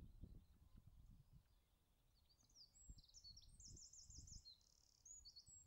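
Faint birdsong: a rapid, high trilling song of repeated notes starts about halfway through, over intermittent low rumbles.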